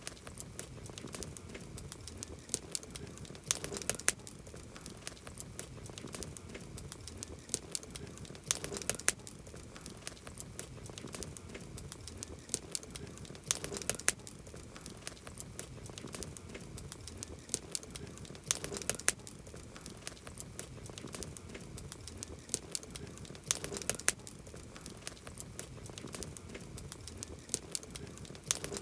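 Wood campfire crackling, with a low steady hiss under many sharp pops and snaps. Clusters of louder pops come about every five seconds.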